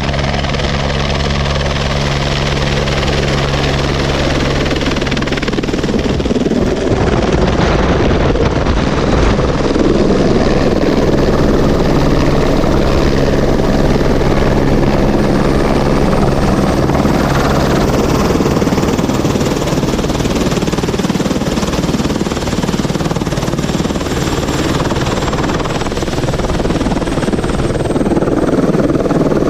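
Helicopter running close by: a steady rotor and turbine drone for the first six seconds, then a louder rushing noise of rotor downwash and wind on the microphone for the rest.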